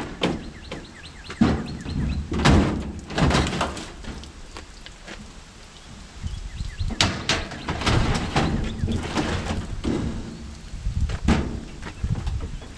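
A truck's engine running low underneath about a dozen irregular thuds and clunks, as the truck, caught on a stack of boxes, is worked free.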